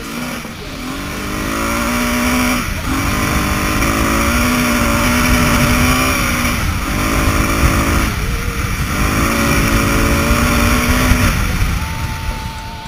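KTM 690 Enduro's single-cylinder engine pulling hard under acceleration, its pitch climbing and breaking at three upshifts, then easing off near the end. Heavy wind rumble on the helmet-camera microphone runs underneath.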